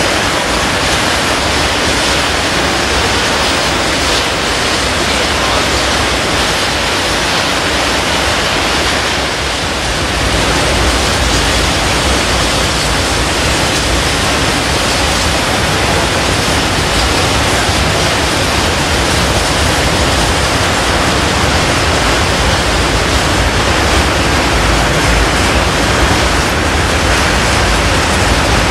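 Freight train tank wagons rolling past, a loud steady rush of wheel and rail noise that grows a little louder and deeper about ten seconds in.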